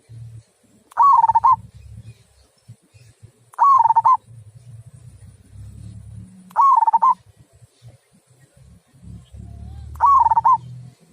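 Zebra dove (perkutut) cooing in the 'kung' style: four short warbling coos about three seconds apart, each falling slightly in pitch.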